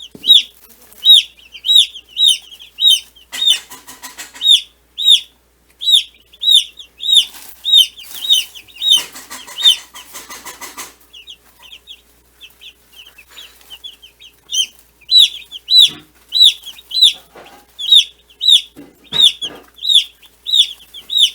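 Broiler (meat-bird) chicks peeping loudly and insistently, high-pitched calls at about two a second, with a brief lull about two thirds of the way through. Bursts of rustling come in between.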